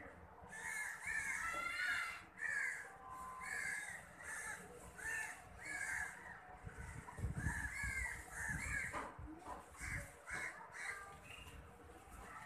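Birds calling over and over in short calls, about one or two a second, with a low rumble partway through.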